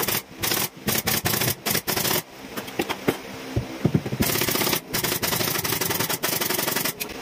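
Carpentry power tools working in short, loud, stop-start bursts, with a rapid rattle inside each burst.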